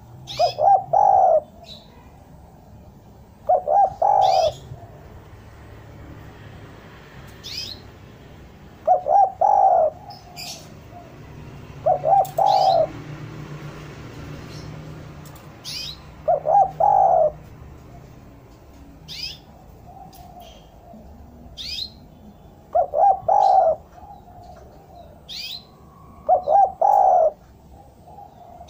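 Spotted dove (derkuku) cooing: short phrases of three or four low coos, repeated about seven times a few seconds apart. High, quick chirps from a smaller bird sound between the phrases.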